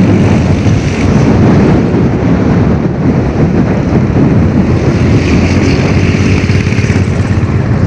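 Storm-force wind buffeting the microphone in a loud, dense, steady rumble, with a vehicle engine faintly running underneath.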